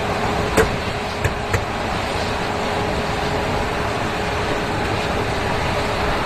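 A truck on the move, its engine and road noise running steadily with a faint steady hum. There are three short sharp clicks within the first two seconds, the first the loudest.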